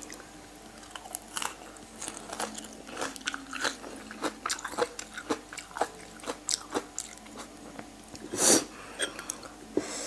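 Chewing of boiled pig ear, its cartilage crunching in a run of short, sharp crackles. The loudest crunch comes about eight and a half seconds in.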